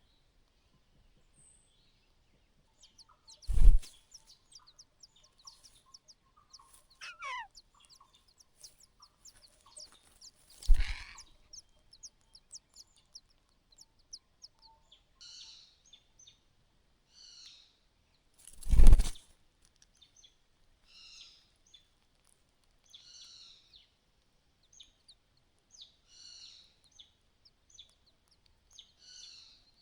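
A bird calling in short high chirps, repeated about once a second through the second half, with small scattered ticks earlier. Three heavy thumps stand out, the last and loudest near the end.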